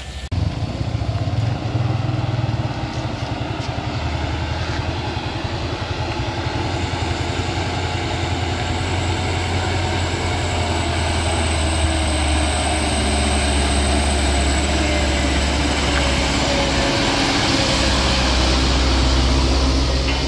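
Heavy truck's diesel engine running close by, a steady deep drone, with a faint high whine in the middle; the sound grows slightly louder near the end.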